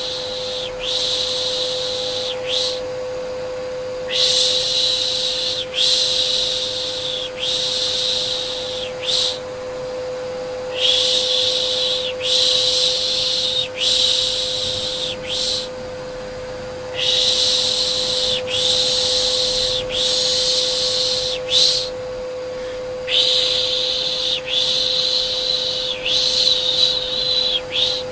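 Rhythmic 'pış pış' shushing for soothing a baby, a repeated hiss about once a second in runs of four to five seconds with short breaks between them, over the steady hum of a vacuum cleaner running as white noise.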